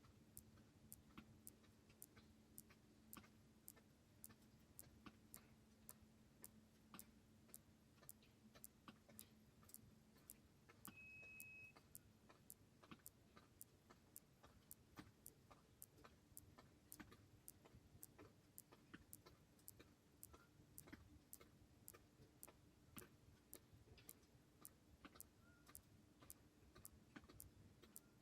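Faint, even ticking, about two ticks a second, like a clock, over a low hum, with one short high beep about eleven seconds in.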